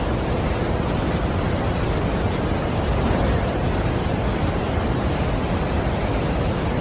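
Steady rushing of a large waterfall, a constant deep wash of falling water with no change in level.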